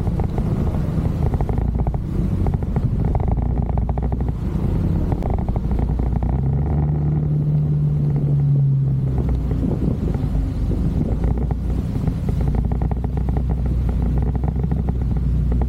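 Motorcycle engine running on the move, with a rough rumble of wind and road noise over the microphone. A clearer, steady engine tone stands out for about two seconds midway.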